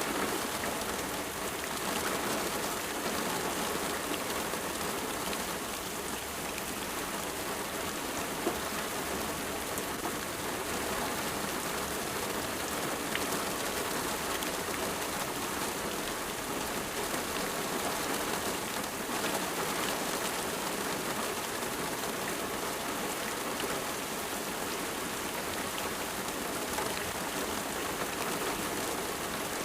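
Steady rain falling, an even hiss of many drops hitting a surface, with fine individual drop patter.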